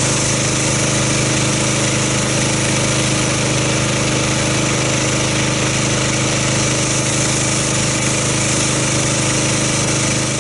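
Gas-engine pressure washer running steadily, with the hiss of its water jet rinsing a car.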